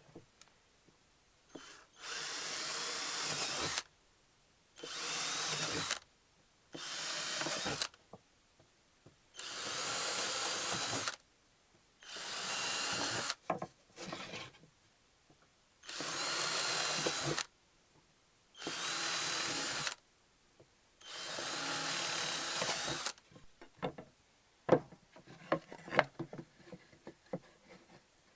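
Power drill working wood, run in about eight short bursts of one to two seconds each with a motor whine, pausing between them. Near the end come a few sharp clicks and knocks of wood and tool handling.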